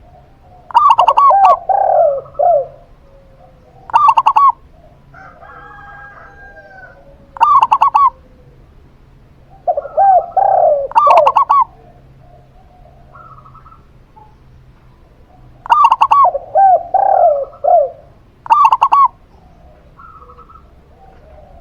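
Zebra dove (perkutut) and spotted dove (tekukur) cooing. Loud phrases of quick coos come in six bouts a few seconds apart, with softer coos in between.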